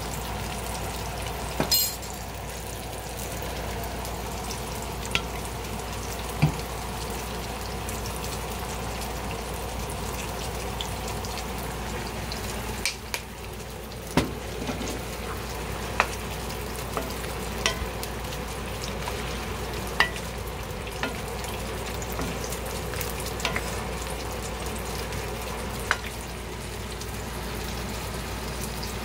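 Beef and broccoli sizzling steadily in a cast-iron skillet as they are stirred, with a few short sharp knocks of the spatula against the pan.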